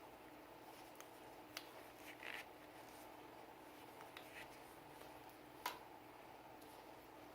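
Faint handling sounds from cleaning a Sig Sauer P320 pistol: a few light clicks, the sharpest about six seconds in, and a short scrub about two seconds in, over a low steady hum.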